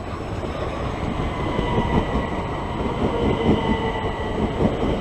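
Electric passenger train running through the station, its wheels rumbling under a steady high-pitched whine, getting gradually louder.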